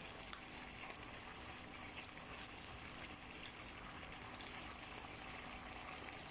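Pork adobo simmering in its sauce in a pan: a faint, steady sizzle with a few small crackles.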